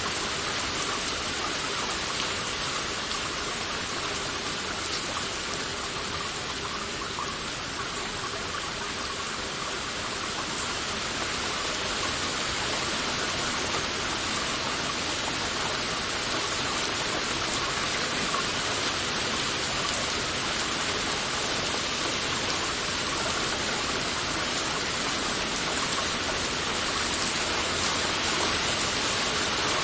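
Heavy rain falling steadily, a dense even patter of raindrops.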